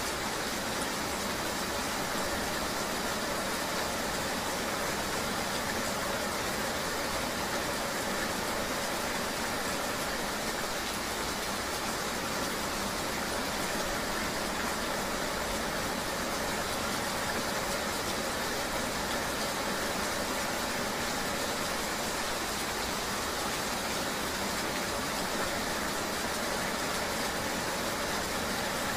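Steady rain ambience with the even drone of a vehicle engine running underneath, unchanging throughout.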